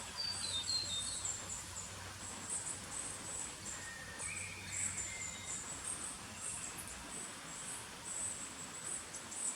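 High-pitched insect chirping in short repeated pulses, with a quick run of descending bird notes near the start and a lower bird call about four seconds in.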